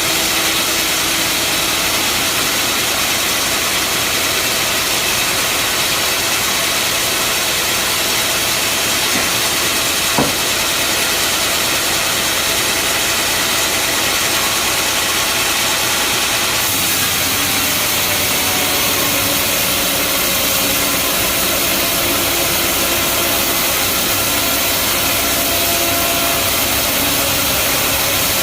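Bandsaw sawmill running with a steady mechanical noise, with a single sharp click about ten seconds in and a change in tone a little past halfway.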